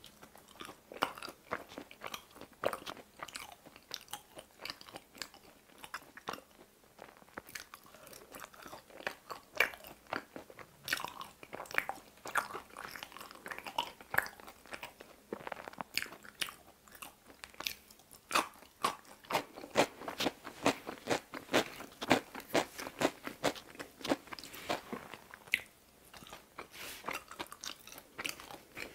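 A person chewing and biting pizza, crust included: a dense, irregular run of short crunching clicks in clusters, busiest and loudest in the latter half.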